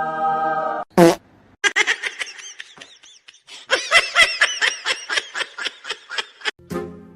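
Rapid, repeated pulses of laughter in two long runs, after a steady held tone that cuts off with a click about a second in.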